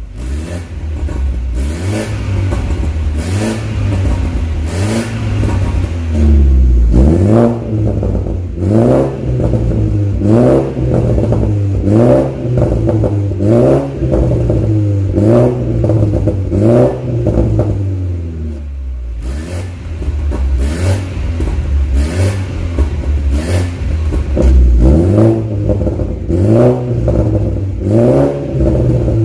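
BMW F30 320i's turbocharged four-cylinder engine revved repeatedly through an aftermarket full-system valved exhaust. After a steadier opening, the revs are blipped about once a second, each one rising and falling in pitch.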